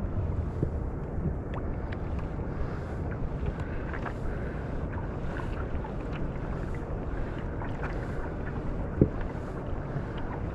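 Steady wind and water noise around a kayak, with small scattered knocks and one louder knock about nine seconds in.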